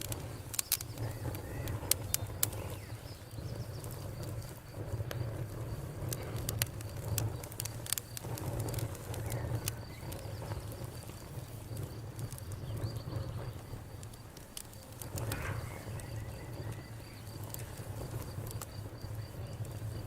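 Campfire crackling: scattered sharp pops and snaps of burning wood over a steady low rumble of flames.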